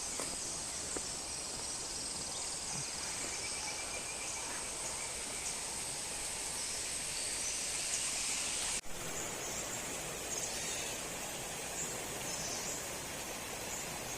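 Steady rushing of flowing water under a continuous high-pitched insect chorus. About nine seconds in the sound drops out for an instant and resumes with a slightly different insect pattern, as at a cut.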